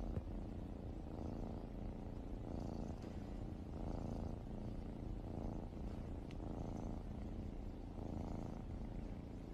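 A domestic cat purring close up, a steady low purr that swells and fades with each breath about every second and a quarter.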